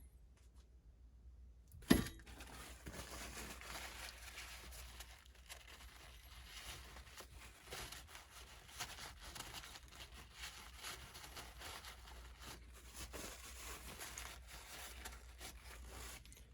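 A sharp knock about two seconds in, then a long stretch of uneven rustling and scraping from hands working at the bench, stopping abruptly near the end.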